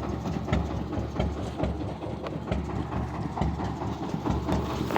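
Heavy vehicle engine idling with a low, uneven rumble, with scattered clicks and knocks over it.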